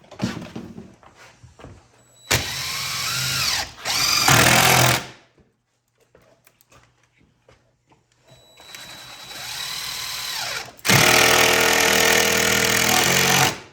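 Power drill running in two bursts, the second one longer, its motor pitch dipping and rising under load, with small knocks of handling in between.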